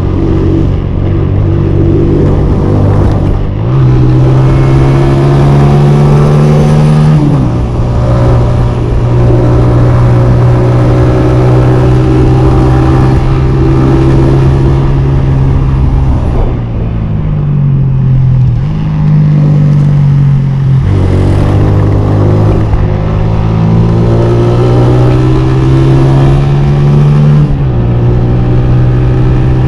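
Honda CG 125's air-cooled single-cylinder four-stroke engine under way, its pitch climbing with throttle, dropping sharply at gear changes and sagging briefly when the rider eases off, over a steady low rush.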